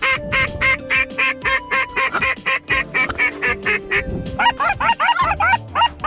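Waterfowl calling: an even run of short duck quacks, about four a second, gives way about four seconds in to faster, short rising goose-like clucks. Background music with held notes plays underneath.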